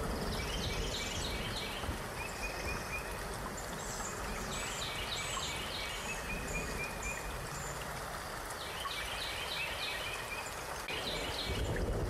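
A small songbird sings short chirping phrases about four times over a steady rushing background of water-like noise.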